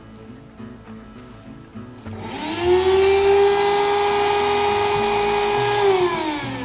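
Motion-activated deer scarer going off, set off by people walking past: a loud siren-like whine that rises in pitch over about half a second, holds steady for about three seconds, then falls away near the end.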